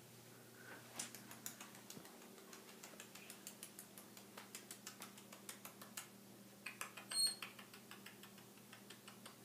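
A pet bird's claws clicking lightly and evenly on a hard floor as it walks, about three to four steps a second, with a brief high chirp about seven seconds in.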